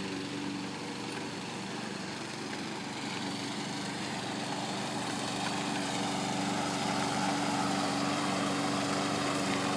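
Lawn mower engine running steadily, growing slightly louder.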